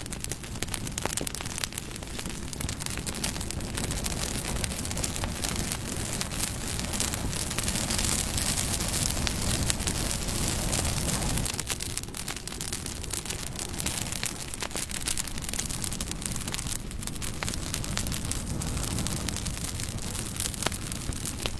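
Campfire burning, wood crackling and popping with a steady low rush of flames.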